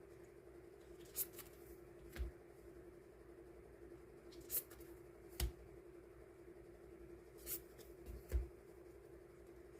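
Hands handling and sorting die-cut sticker sheets: about six light taps and clicks spread irregularly over a steady low hum.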